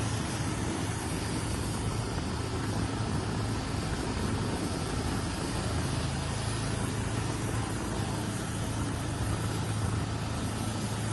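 An engine running steadily, a low even hum under a constant wash of noise.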